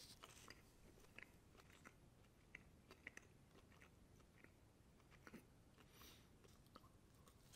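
Faint chewing of a bite of an antelope-and-beef meat snack stick, with irregular soft clicks from the mouth.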